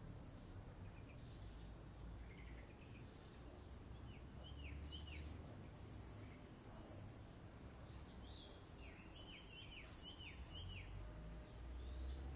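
Birds chirping in a tree: scattered short, falling chirps, with a rapid, high trill about six seconds in that is the loudest moment.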